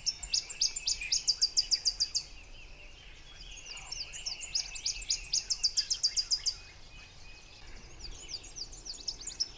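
A small songbird singing the same high song over and over, about three times. Each song is a run of short, quick, downward-slurred notes that speed up into an even trill lasting about two seconds.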